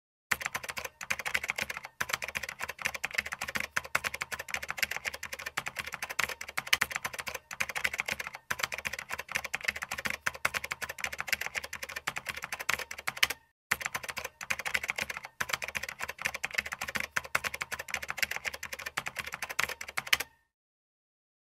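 Typing sound effect: a rapid, continuous run of key clicks with a few brief pauses, stopping about a second before the end.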